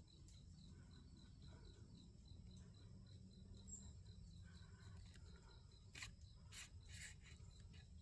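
Near silence outdoors, with faint insect chirping in an even pulse about four times a second. A few short soft clicks or rustles come near the end.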